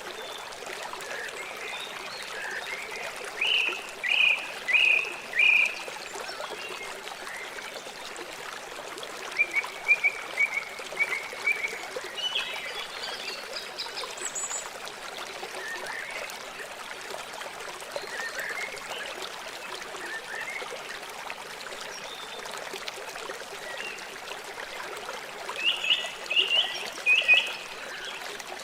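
River water flowing with a steady rush. Over it a bird calls now and then in short series of quick chirped notes, the loudest being four notes a few seconds in and another four near the end.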